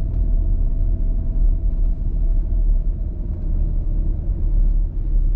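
Steady low rumble of a Porsche Cayenne driving slowly while towing a small, light camper trailer: engine and road noise.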